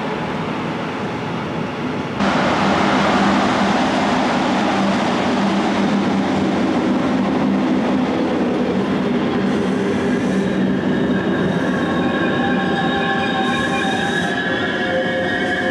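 Train running on rails, the rolling noise stepping up suddenly about two seconds in. High-pitched wheel squeal builds in the later part, with two short hisses along the way.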